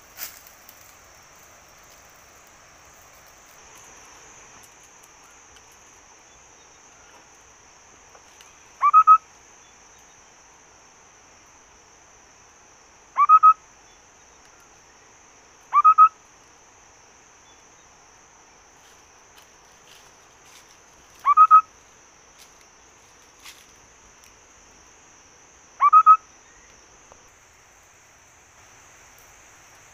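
A bird's short rising call, given five times a few seconds apart, each a quick double note, over a steady high-pitched insect drone.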